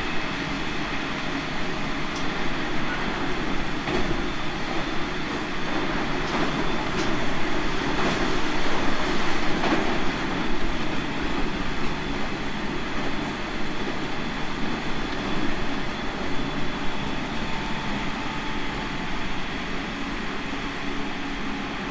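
Running sound aboard a JR Central 313 series 5000-subseries electric multiple unit: a steady rumble of wheels on rail with a few rail-joint clicks. It gets louder around the middle and eases off again toward the end.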